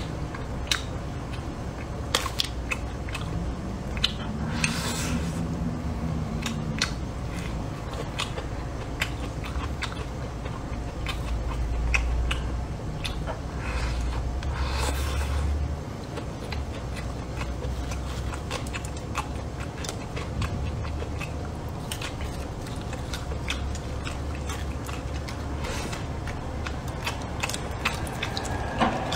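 Close-up chewing and mouth sounds of a man eating braised pork ribs with rice, with chopsticks clicking against a ceramic bowl. A louder burst of scooping and chewing about fifteen seconds in, as rice is shovelled from the bowl.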